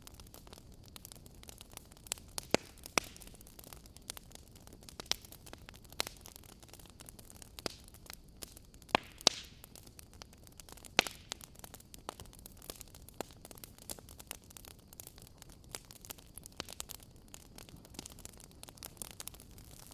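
Wood fire crackling in a fireplace: irregular sharp pops and snaps, a few louder ones, over a low steady hiss.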